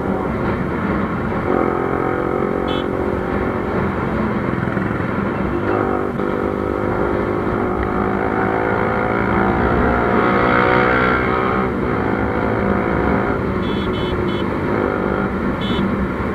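Yamaha R15 V2's single-cylinder engine running through an aftermarket Pro Liner exhaust while riding on the road, very loud. The note rises and falls with the revs, climbing to its loudest about ten seconds in before easing off.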